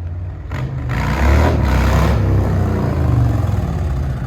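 Harley-Davidson Fat Boy 114's Milwaukee-Eight V-twin running through a Big Radius exhaust. About a second in, the throttle opens and the exhaust note grows louder and fuller, then holds steady under load.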